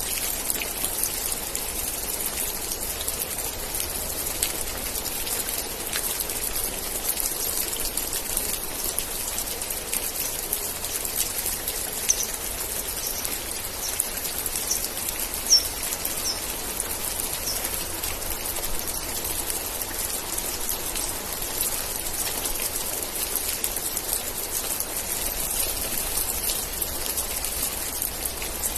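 Steady rain falling, with a dense patter of close raindrops and a couple of sharper drips. A few short high chirps come through about halfway.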